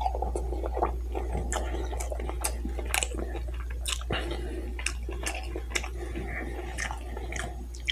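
Close-miked chewing of a bratwurst in a bun, with wet mouth clicks and lip smacks at irregular intervals, over a steady low hum.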